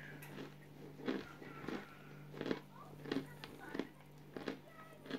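Chewing crunchy chunks of cooled cornstarch (cornflour), with a crunch about every two-thirds of a second over a steady low hum.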